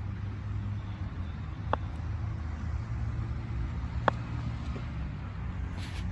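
Steady low outdoor rumble, with two short sharp knocks, one about two seconds in and a louder one about four seconds in.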